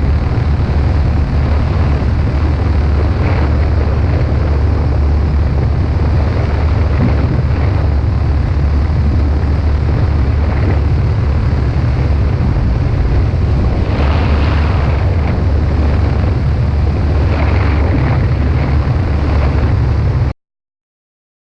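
Heavy wind buffeting on the onboard microphone of a powered hang glider in flight: a loud, steady low rumble with a few stronger gusts in the second half, cutting off suddenly near the end.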